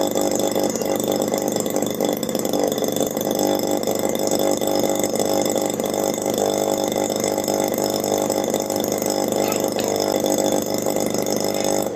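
Homemade miniature two-stroke engine, built from a refrigerator compressor, running steadily at an even speed.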